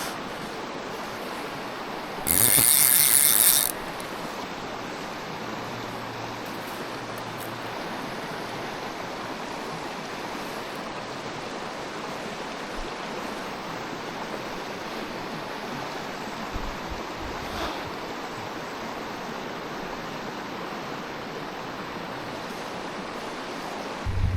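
A mountain stream runs steadily. About two seconds in, a fly reel's clicker ratchets loudly for over a second as line is pulled off or wound in.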